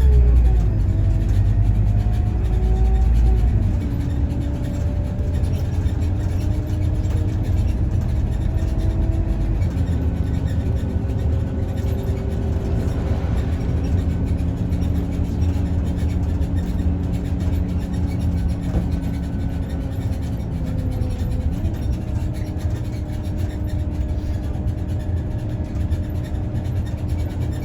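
Scania OmniLink city bus heard from inside the cabin while driving: a steady engine and drivetrain drone with whining tones that shift to new pitches a few times as the bus changes speed. A heavier low rumble sits under the first few seconds.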